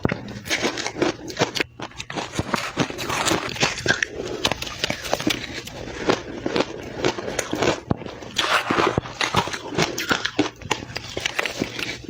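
Close-miked chewing and crunching of soft, powdery crushed ice, eaten fast: dense, irregular crackling bites one after another.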